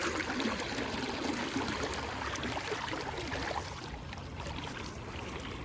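River current running and trickling steadily around the wading angler.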